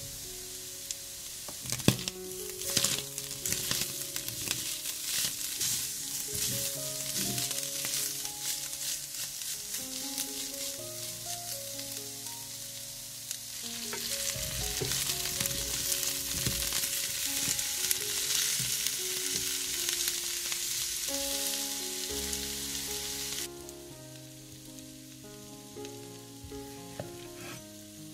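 Food sizzling in hot oil in a frying pan, stirred now and then with a utensil that clicks against the pan. The sizzle grows louder about halfway through and drops off abruptly near the end.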